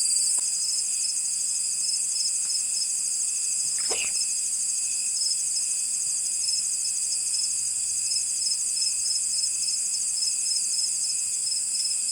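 A chorus of crickets and other night insects: a steady, high, fast-pulsing trill with a few thin steady tones above and below it.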